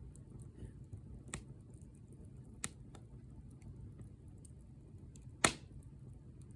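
Wood fire crackling: a low steady rumble with scattered faint ticks and three sharp pops, the loudest about five and a half seconds in.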